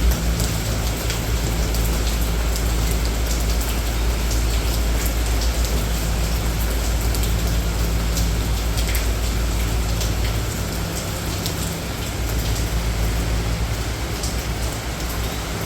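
Steady rain falling, with individual drops ticking on surfaces over a low, steady rumble.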